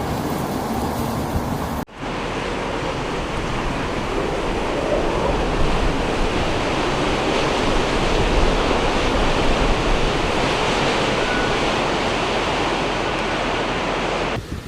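Steady rushing wind noise with no clear pitch, broken by a sudden cut about two seconds in, then more of the same steady rushing.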